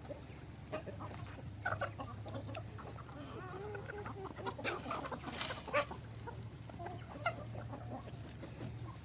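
Baladi chickens clucking softly and sporadically, short calls scattered every second or so, over a steady low hum.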